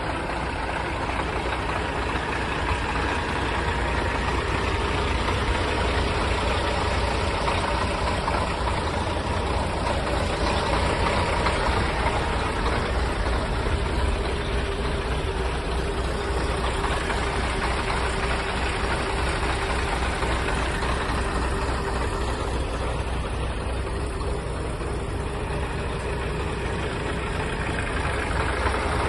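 Scania R420 truck's diesel engine idling steadily.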